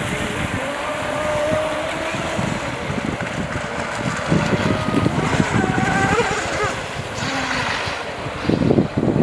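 Electric RC speedboats running on the water, their motors whining and rising and falling in pitch as the throttle changes. Wind buffets the microphone underneath.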